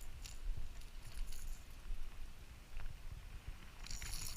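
Low rumble on the microphone with scattered small clicks and light rattles, and a denser burst of rattling near the end, while a hooked bass is being landed.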